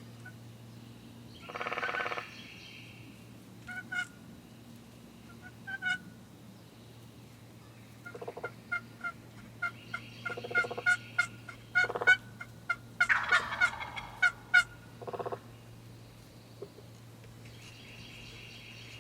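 Wild Osceola turkey gobbler gobbling several times, the longest gobble about two seconds in. A rapid run of short, sharp calls fills the middle of the stretch.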